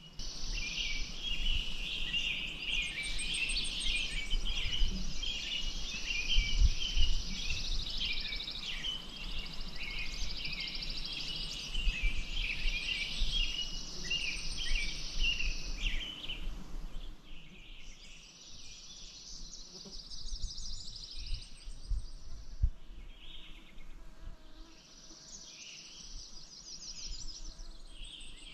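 Many birds chirping and singing at once in a busy chorus over a steady background hiss, with occasional low rumbles. About two-thirds of the way through, the hiss drops away and the chorus thins and quietens before picking up again near the end.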